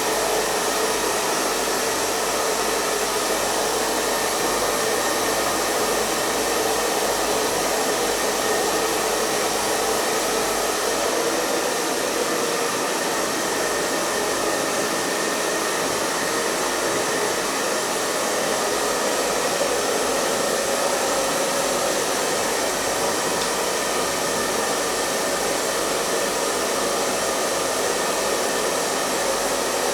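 Hair dryer running steadily on a constant setting: an even, unbroken rush of blown air and motor hum with a faint steady whine.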